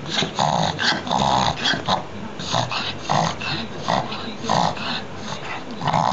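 Dog reverse sneezing: a rapid, repeated run of harsh, noisy breaths, about two a second.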